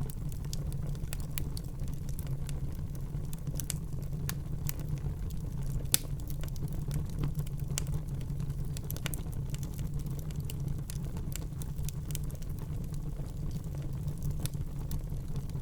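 Wood fire burning in a fireplace: irregular crackles and snaps of burning logs over a steady low rumble of the flames, with one sharper, louder pop about six seconds in.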